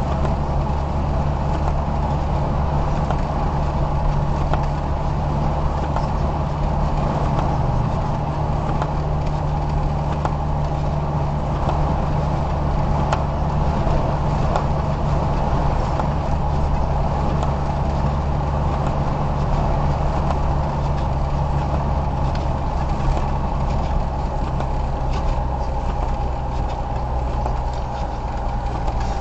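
Car driving, heard from inside: a steady low engine drone with road noise.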